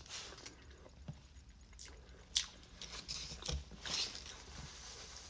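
A person chewing and biting food close to the microphone: soft, scattered wet mouth clicks and smacks, with a sharper click about halfway through.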